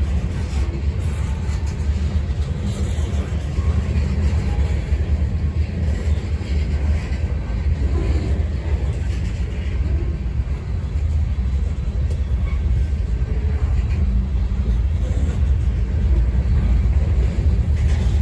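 CSX freight train's covered hoppers and gondola rolling past at close range: a steady low rumble of steel wheels on the rails.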